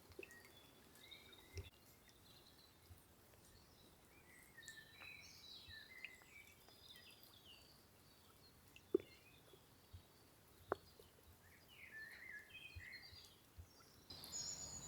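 Faint songbirds chirping and singing, with short calls scattered throughout, and two sharp clicks in the second half.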